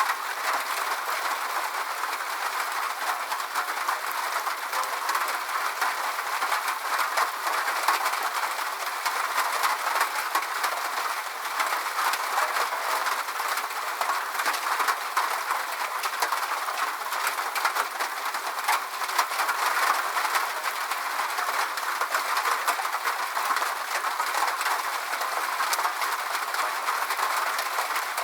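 Steady rain with a dense spatter of fine drops, holding at an even level with no breaks.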